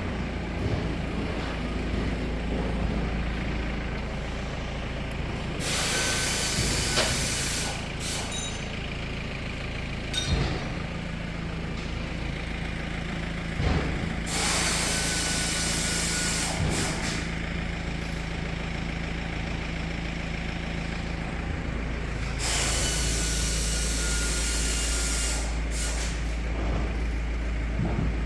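A vehicle engine running steadily, with three loud bursts of hissing air, each two to three seconds long and several seconds apart, and a couple of short knocks between them.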